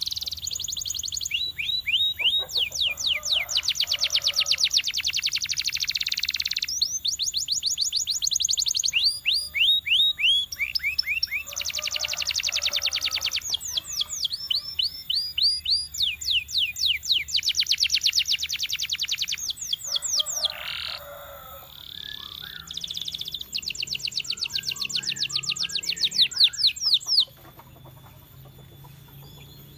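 Domestic canary singing: long phrases of rapid repeated notes, trills and rolls that change speed and pitch from one phrase to the next, breaking off near the end.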